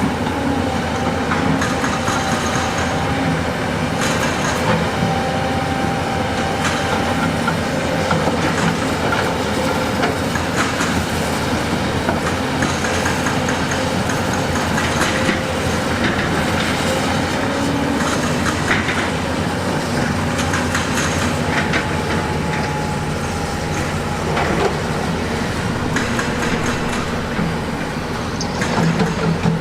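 Heavy diesel earthmoving machinery running steadily, with frequent clanks and knocks of steel on rock. A faint whine comes and goes over the engine.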